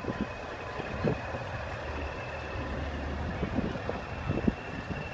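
A large vehicle's engine running with a low steady rumble, broken by short thumps of wind on the microphone.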